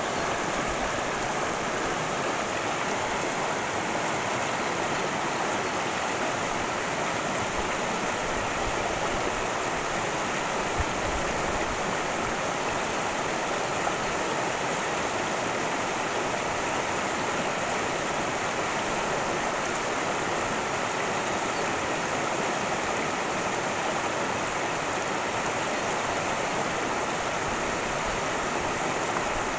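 Creek water cascading and babbling over rocks, a steady rushing with no change.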